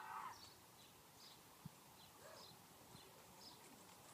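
Quiet outdoor ambience with faint, short high chirps of a small bird repeating every second or so. A child's brief high-pitched call opens it, and there is one light click near the middle.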